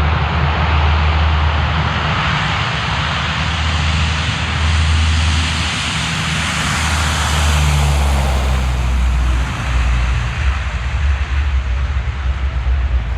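Loud, continuous aircraft engine noise: a deep rumble under a dense roar that swells for a few seconds around the middle.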